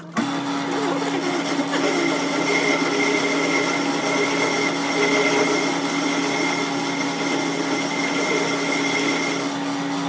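Power tool running steadily on metal, with a constant hum and a thin high whine over a dense hiss of grinding or cutting; it cuts in sharply and stops sharply.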